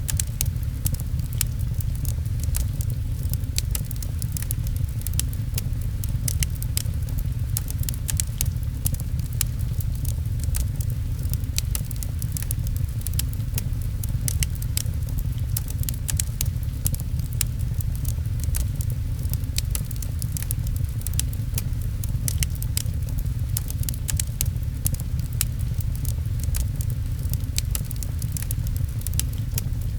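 Wood fire crackling with many small sharp pops, over a steady deep rumble, with rain pattering.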